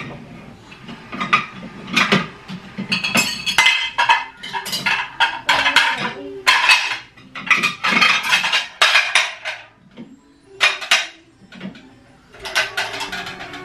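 Dishes and cutlery clattering and clinking, a run of quick knocks and rattles with two short pauses.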